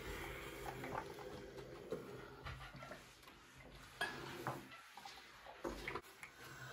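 Light clinks and knocks of dishes and utensils being handled, a few sharp ones spread irregularly through.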